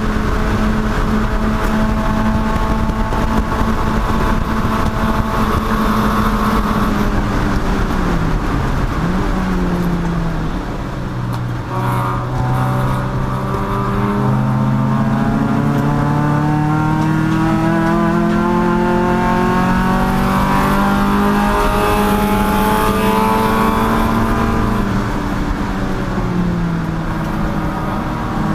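Chump car race car engine under power on track, its note held high, then falling about eight seconds in before climbing steadily for about ten seconds as the car accelerates, with another brief drop in pitch near the end. Steady road and wind noise runs underneath.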